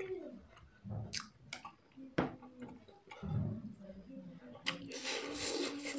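A person chewing a mouthful of noodles and chicken close to the microphone, with wet mouth smacks and several sharp clicks, and a louder rush of noise near the end.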